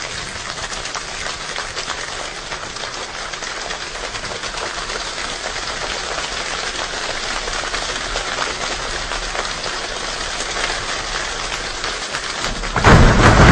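Steady rainfall, a dense patter that slowly grows louder. Near the end it gives way suddenly to a much louder rush with a deep rumble.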